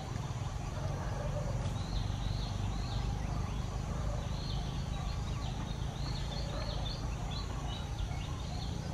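Birds chirping in a quick run of short high notes, starting about two seconds in and stopping near the end, over a steady low outdoor rumble.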